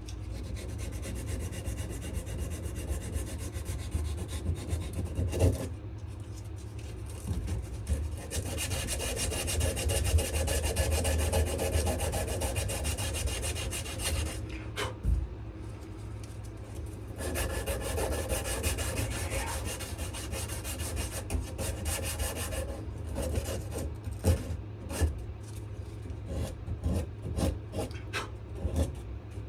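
Sandpaper rubbed by hand back and forth over a wenge and maple knife handle in rapid continuous strokes, 120 grit after the coarser 80, pausing briefly twice.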